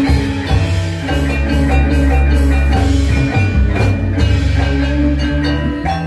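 Balinese gamelan playing: bronze metallophones ring in dense, interlocking strokes over drums and deep sustained low tones.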